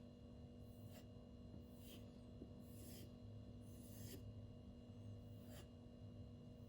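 Spyderco Tenacious 8Cr13MoV steel blade drawn across a silicon carbide whetstone in faint, even strokes, five of them, about one a second.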